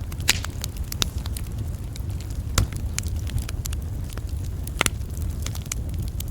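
Campfire crackling: a steady low rumble of burning wood with frequent sharp pops and snaps, the loudest about 2.5 s and 5 s in.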